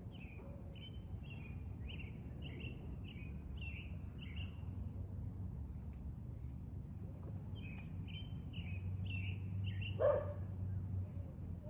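A songbird singing a run of short, high whistled phrases, a few a second, that pauses midway and then starts again. A steady low hum runs underneath, and a short louder sound comes about ten seconds in.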